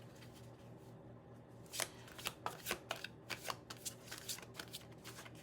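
A tarot deck being shuffled by hand: a run of quick, irregular card flicks and slaps that starts about two seconds in and fades out near the end.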